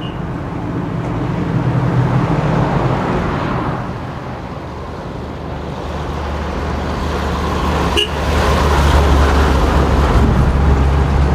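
Heavy truck's diesel engine running, swelling and easing, then growing louder and deeper after a sharp click about eight seconds in.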